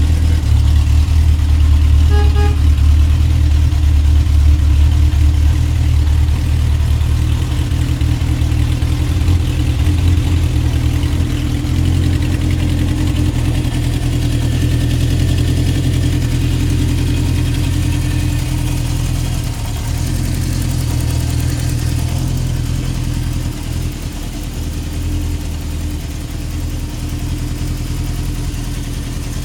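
Honda CB750 K4's air-cooled inline-four engine running steadily at idle, a little quieter in the second half.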